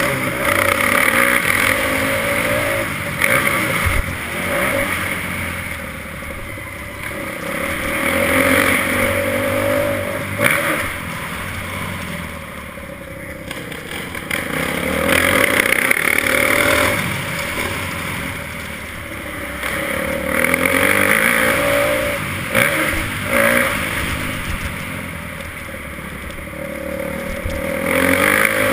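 Motocross bike engine revving up and down in repeated waves every few seconds, the pitch rising as the throttle opens and falling as it closes.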